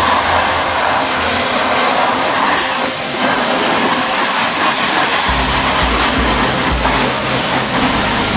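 Steady rushing hiss of a touchless truck wash at work, mixed with background music whose bass drops out near the start and comes back about five seconds in.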